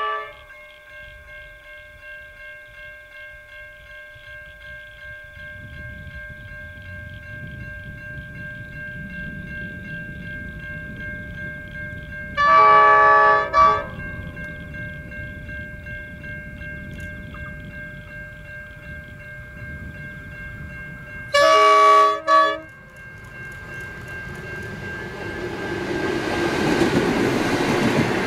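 Approaching diesel locomotive sounding its multi-tone horn three times: a brief blast at the start, a longer blast with a short tap after it about halfway, and another about 22 seconds in. Its rumble grows louder as it nears, and near the end the wheels of its passenger carriages rush past, over a steady high ringing.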